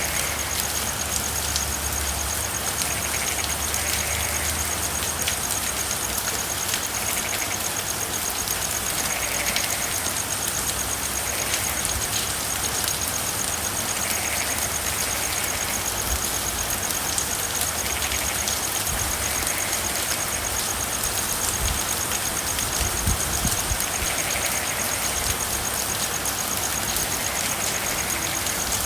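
Steady rain falling, with faint frog calls every second or two.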